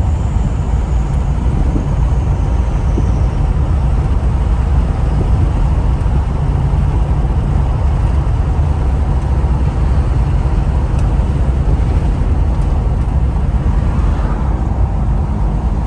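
Ford 6.0 Powerstroke turbo-diesel V8 with a straight delete pipe running steadily as the truck cruises, a loud, continuous low rumble. A faint high whistle slides slightly down and fades in the first few seconds.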